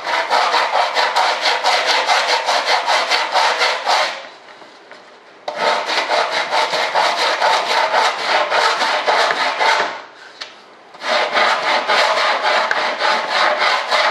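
Coarse sandpaper worked rapidly back and forth over the edge of a cured fibreglass-and-resin part, sanding it square and flush. The strokes come several a second in three spells, broken by short pauses about four and ten seconds in.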